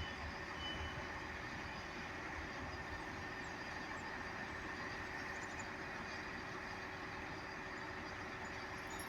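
Class 158 diesel multiple unit running at the station: a faint, steady hum with no distinct events.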